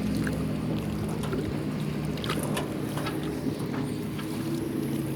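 Motorboat engine on the lake, a steady low drone that shifts slightly in pitch about four seconds in, with light clicks scattered over it.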